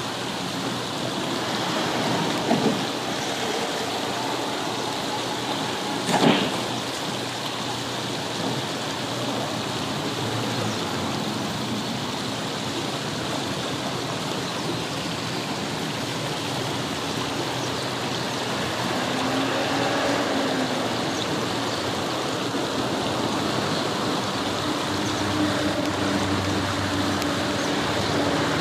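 River water running steadily over stones, with a low hum of distant road traffic growing in the second half. A couple of short sharp sounds a few seconds in.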